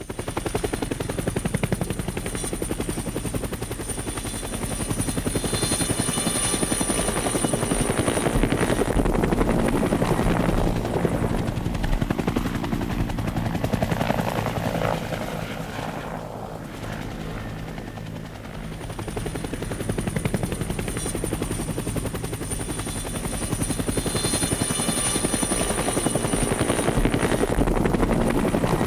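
Firefighting helicopter flying overhead: rotor blades beating quickly and evenly over a high turbine whine. The sound eases off somewhat midway, then swells back to full strength near the end.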